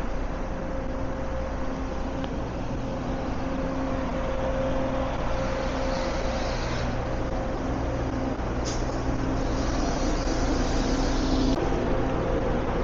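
Road traffic running steadily, a continuous rush of tyres with a low engine hum underneath.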